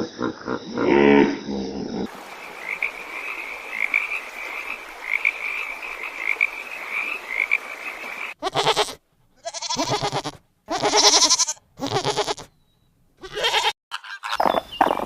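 A string of edited animal calls. First comes a run of short, high, evenly repeated calls over a steady hiss. Then, from about eight seconds in, several separate loud calls follow, cut apart by moments of dead silence.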